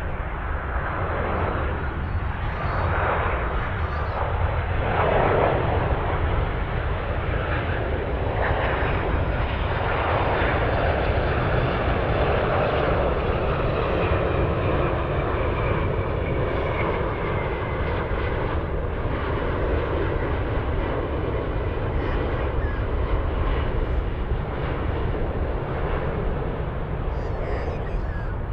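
Jet engines of an Airbus A330 airliner landing: a steady, loud rumble of engine and airframe noise. A faint whine falls slowly in pitch around the middle.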